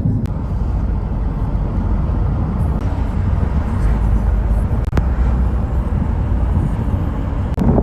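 Steady low rumble, with a couple of faint clicks.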